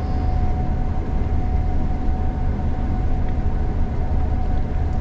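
Gleaner combine harvester running steadily while harvesting, heard from the cab. It is a deep, even rumble with a thin steady whine above it.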